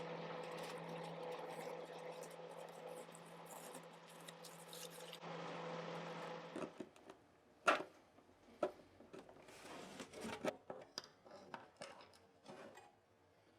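Faint workbench handling noises: scattered light clicks, taps and rubs of parts and tools being moved, with one sharper click a little past halfway. A steady low hum sits under the first half and stops about six and a half seconds in.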